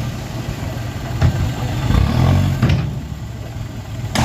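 Engine of heavy earthmoving equipment running at a low pitch, with a few short knocks.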